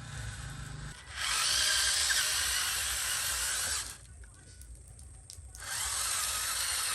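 Small power tool, such as a drill, running in two bursts: about three seconds, a pause of under two seconds, then starting again.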